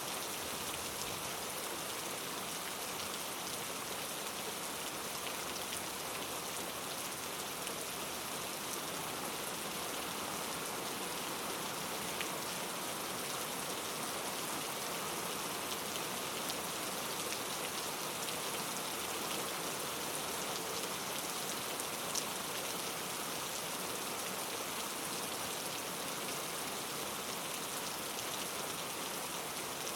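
Steady rain falling on a surface, an even hiss with scattered drop ticks and one slightly louder drop about two-thirds of the way through.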